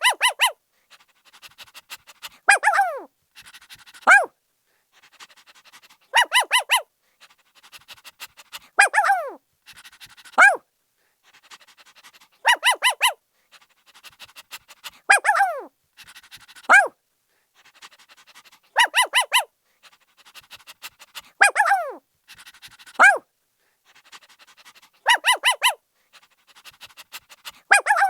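A puppy barking in groups of quick, high-pitched yips, each group followed by one or two yelps that slide down in pitch, with fainter sounds between. The pattern repeats about every six seconds.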